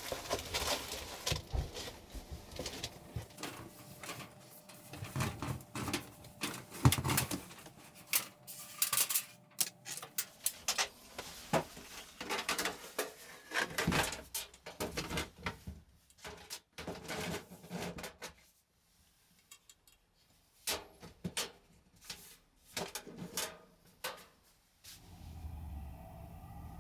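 Irregular clicks, knocks and light clatter of small objects being handled in a small room, with a pause of about two seconds past the middle. A low steady hum starts near the end.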